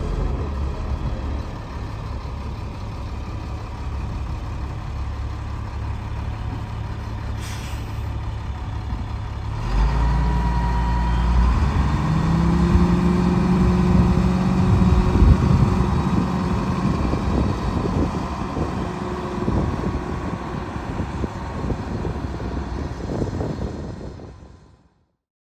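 Diesel engine of a 1999 Peterbilt 330 box truck running, with a short air hiss about seven seconds in. About ten seconds in it gets louder and its pitch rises, as when the engine is revved or the truck pulls away, then it fades out near the end.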